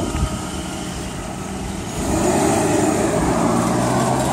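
BMW 5 Series sedan's engine running as the car pulls away, growing louder about two seconds in.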